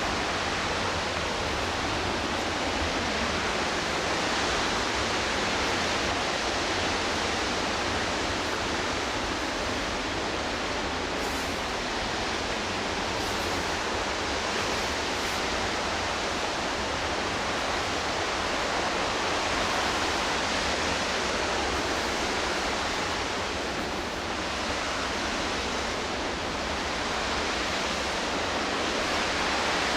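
Steady rush of the McKenzie River's whitewater and falls, an even roar with no breaks.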